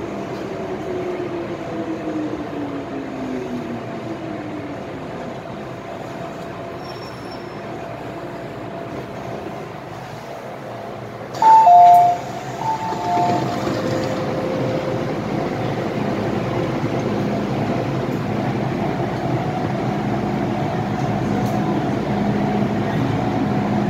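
MTR Island Line M-Train: traction motors whining downward in pitch as the train brakes to a stop, then a quieter spell at the platform. About halfway, a loud two-tone door-closing chime sounds, and then the motors whine and the running rumble builds as the train pulls away.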